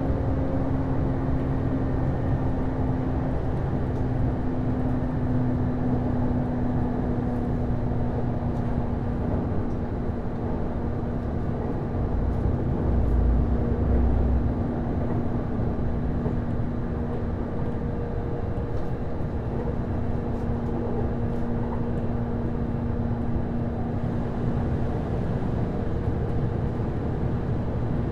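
Inside a JR East HB-E210 series hybrid diesel railcar under way: steady wheel-on-rail rumble with a held hum from the hybrid drive (Komatsu DMF15HZB-G diesel engine and Hitachi IGBT-VVVF traction system). A louder low rumble passes about twelve seconds in.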